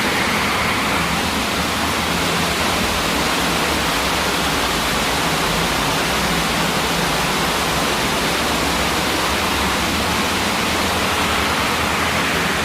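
Storm drain in flood after heavy rain: rainwater rushing through it in a loud, steady torrent.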